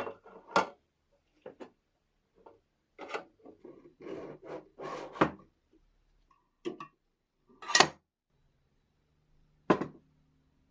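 A series of separate knocks, clicks and short rubbing or scraping sounds as hard objects are handled, with silent gaps between them; the sharpest knocks come near eight seconds and near ten seconds in. A faint low hum joins about eight seconds in.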